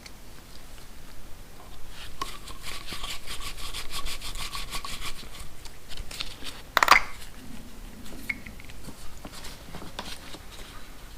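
Ratchet wrench clicking rapidly for a few seconds as bolts are run back in, followed by a single sharp metal clank about two-thirds of the way through.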